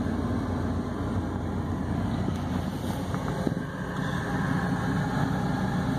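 Dodge Viper SRT10's 8.4-litre V10 idling steadily, heard from inside the cabin.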